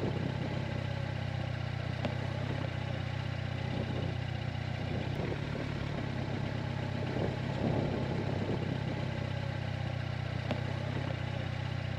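Motorcycle engine running steadily at an even, unchanging low note, with a few faint clicks.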